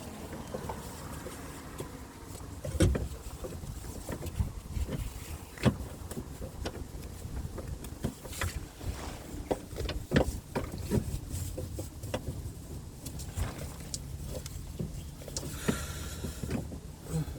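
Scattered metallic knocks and clicks of tools and parts being handled during under-car steering rack work, a few sharper clanks among lighter taps, over a low steady hum.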